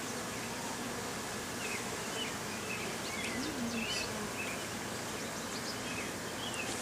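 Honeybees buzzing steadily around an opened hive during an inspection, with short high chirps scattered throughout.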